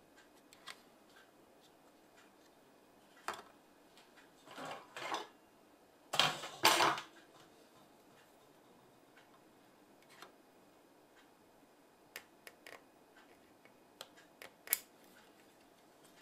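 Scattered clicks and short rustling, scraping handling noises of small tools and parts being worked on a bench, with two louder bouts of handling around five and about six to seven seconds in.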